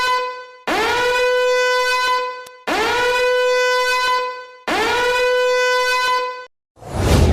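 Four long, steady horn-like blasts on the same note, each sliding up into the pitch, about two seconds apart. A loud crash comes near the end and sets off intro music.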